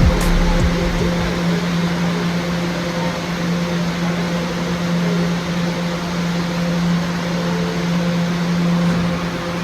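Steady mechanical hum of New York City subway station ambience: a strong low drone with a fainter higher tone over a constant rushing noise. A deep rumble fades out in the first second or so.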